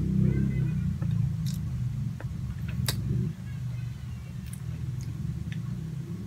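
A person chewing a soft cream-filled eclair pastry, with a few sharp mouth clicks, over a low steady rumbling drone that eases off about halfway through.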